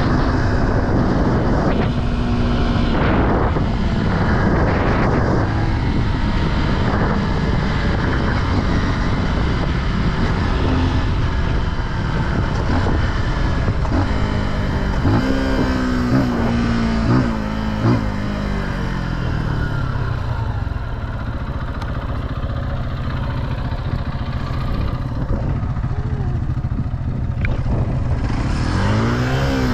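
Off-road vehicle engine running under a rider, revving up and easing off several times, with a steady low rumble of wind and motion underneath.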